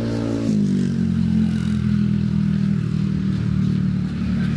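A motor vehicle engine running close by, steady and loud, with its pitch stepping abruptly about half a second in and then holding even.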